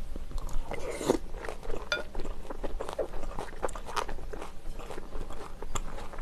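Close-miked chewing of a spoonful of beef rice-cake soup: wet mouth sounds with many small clicks. A wooden spoon clinks and scrapes in the glass bowl, with one brief ringing clink about two seconds in.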